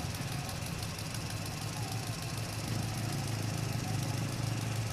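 Mitsubishi light truck's diesel engine running steadily at low revs with a fast, even clatter.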